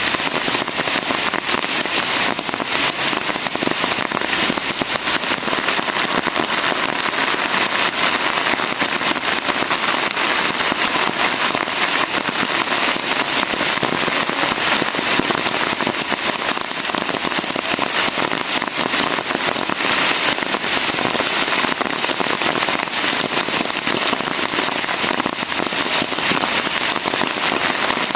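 Steady rain falling: a dense, even patter of countless small drops hitting close by, with no pauses or changes in strength.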